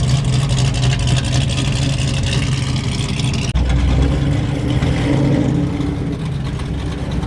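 Car engines running steadily at low speed. About three and a half seconds in, the sound switches abruptly to a different engine note.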